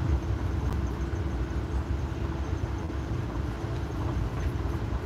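Amtrak passenger train running along the track, heard from inside the coach as a steady low rumble with a faint steady hum above it.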